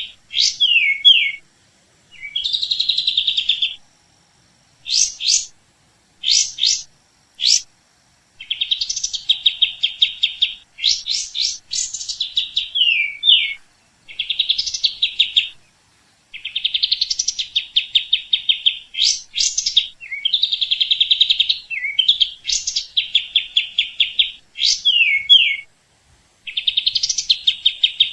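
A songbird singing over and over: each phrase is a rapid, buzzy trill followed by a few quick sharp or down-slurred notes, with short pauses between phrases.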